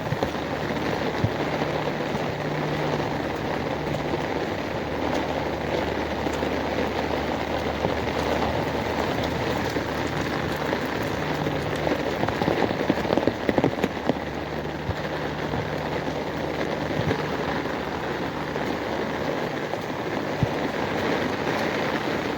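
Steady rain falling, with scattered sharp drop ticks. A low hum runs underneath and breaks off and comes back several times.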